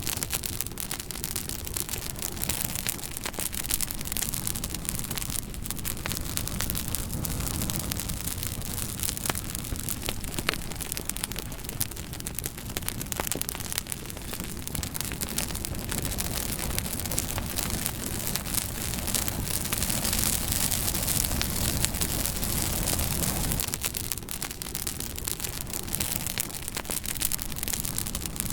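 Wood fire crackling, with frequent sharp snaps and pops over a steady rushing hiss and a low rumble.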